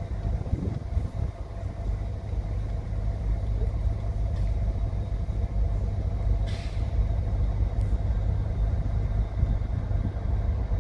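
Diesel freight locomotive running with a steady low rumble and hum, with one short burst of air hiss about six and a half seconds in.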